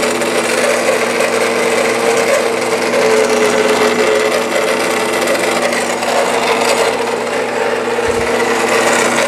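Electric motor and cam drive of a 1957 Genco Grandmother fortune teller machine running through its cycle: a steady motor hum with mechanical whirring and rubbing.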